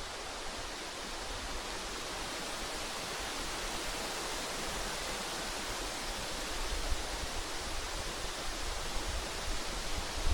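Steady rushing wind noise outdoors, with irregular low rumbles of wind buffeting the microphone that grow stronger near the end.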